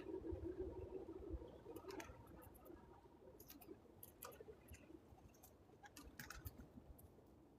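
Faint, irregular clicks and ticks of a squirrel chewing and cracking seed at a feeder. A low hum fades out over the first two seconds.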